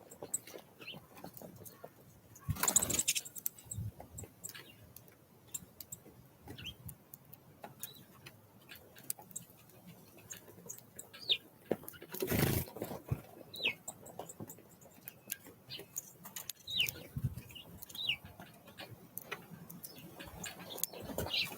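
Small songbirds at a feeder: scattered short, high chirps that fall in pitch, among many small clicks and taps. A louder rush of noise comes about three seconds in and again about twelve seconds in.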